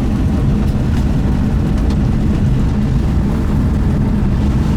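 Steady low rumble of a vehicle with its engine running.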